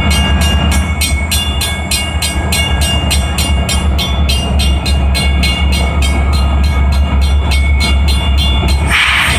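EMD SD40-2 diesel locomotives running in a lashup, their 16-cylinder turbocharged engines giving a deep steady drone. Over it comes an even clicking of about three a second, like wheels over rail joints. A short hiss comes near the end.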